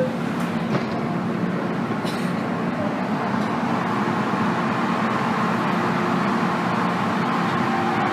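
Interior running noise of an MTR M-Train electric multiple unit on the move: a steady rumble of wheels and car body with faint whining tones from the running gear underneath.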